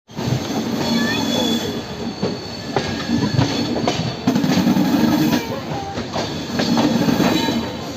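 Passenger train running on the rails, heard from the open doorway of a moving coach: a steady rumble with irregular clacks from the wheels and rail joints and a few brief high-pitched wheel squeals.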